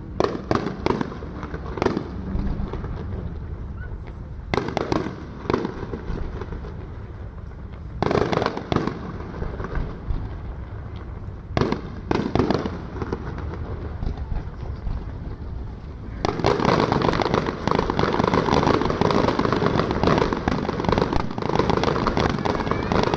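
Fireworks display: aerial shells bursting with single and clustered bangs, then about two-thirds of the way through a dense barrage of rapid overlapping bursts and crackling that keeps going.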